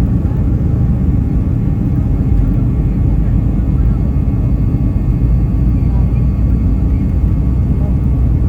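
Four-engine BAe Avro RJ100 jet airliner's turbofans running, a steady, loud, low rumble with no change in pitch.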